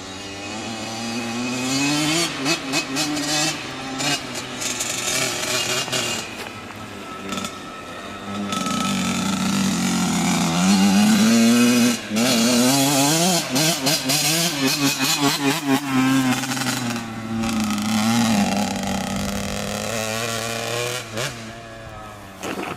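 Dirt bike engine revving hard as the rider comes down the slope, its pitch climbing and dropping with the throttle. It is loudest about ten to twelve seconds in and eases off near the end.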